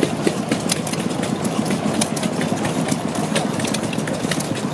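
Deutz MOS 124 stationary gas engine running steadily at idle, a continuous rumble with sharp ticks over it.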